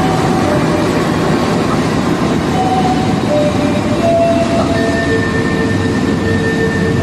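Argo Wilis passenger train running by: a loud, steady rumble of the carriages on the rails, with short high squealing tones that change pitch every second or so.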